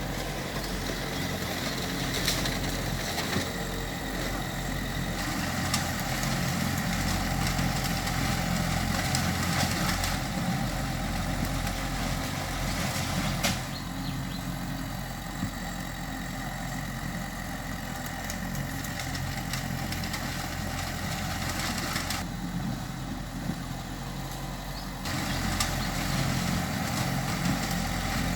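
Diesel engine of heavy earthmoving machinery running steadily. It gets louder for a while, drops back, then rises again near the end, with a few sharp knocks along the way.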